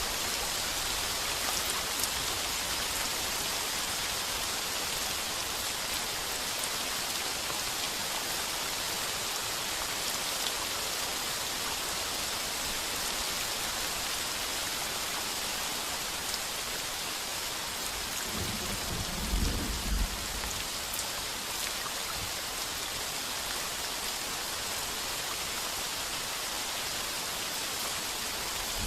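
Heavy rain pouring steadily on a tin roof, with a brief low rumble of thunder about two-thirds of the way through.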